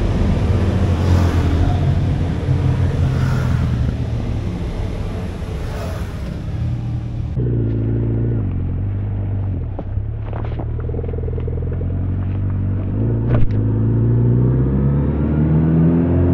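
Kawasaki Z900RS inline-four engine idling steadily. Then it runs under way, its pitch rising and falling with the throttle and climbing as the bike accelerates near the end. Two short knocks come partway through.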